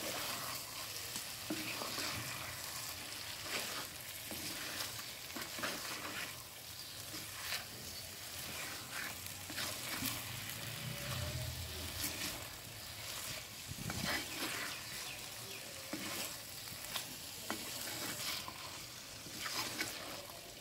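Stuffed tinda (round gourds) sizzling in oily masala in a terracotta pot while a wooden spatula stirs them, with scattered scrapes and knocks of the spatula against the clay. The masala has been fried until the oil separates.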